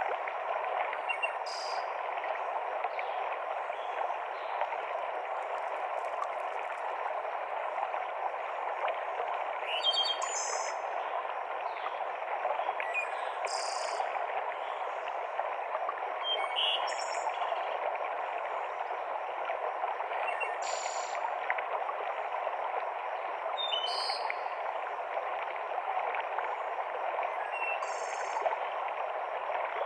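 Forest stream running steadily over rocks, a constant rush of water, with short high bird calls breaking in every few seconds.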